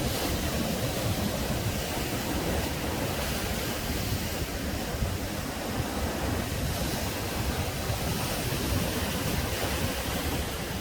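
Sea waves breaking on the shore: a continuous rush of surf that swells and eases a little as the waves come in.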